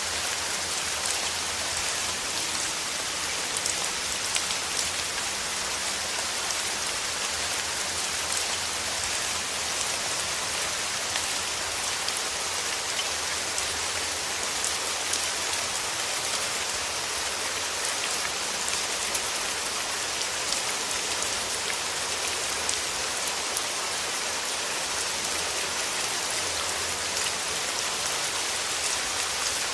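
Steady rain falling, with a dense patter of individual drops ticking through it.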